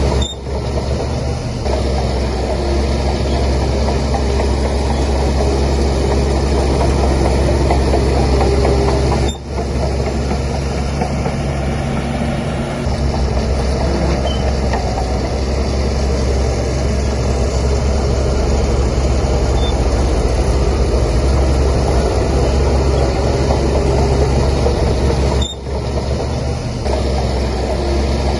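Heavy diesel engine of a Shantui DH17C3 bulldozer running steadily with a deep drone, briefly dropping away three times.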